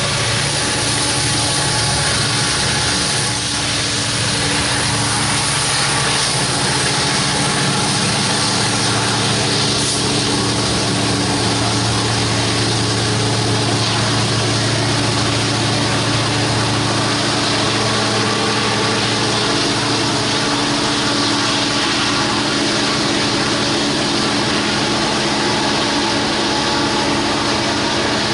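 Diesel-electric freight locomotives running steadily, a low engine drone with several held tones under a dense, even rushing noise of the moving train.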